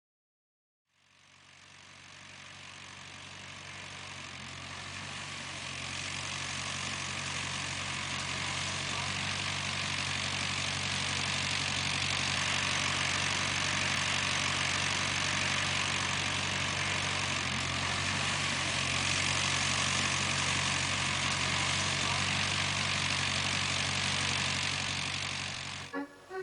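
Massey Ferguson tractor engine running steadily, growing louder over the first few seconds, then cut off abruptly near the end.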